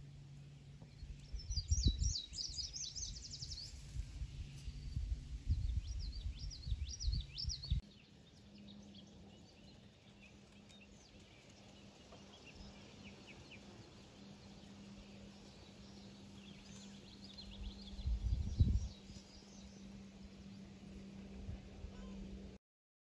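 Small songbirds calling in clusters of quick repeated high notes, with low rumbles on the microphone during the first few seconds and again briefly later.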